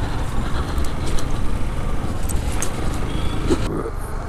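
Motorcycle riding along a road: steady engine and road noise mixed with wind buffeting on the rider's camera microphone.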